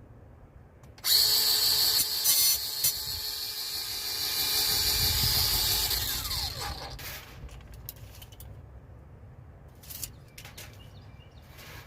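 A power tool starts suddenly about a second in and runs with a high whine for about five seconds, then winds down with a falling pitch. A few light knocks follow near the end.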